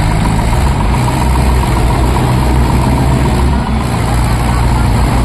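Tractor engine running steadily, a low rumble with a faint steady whine above it.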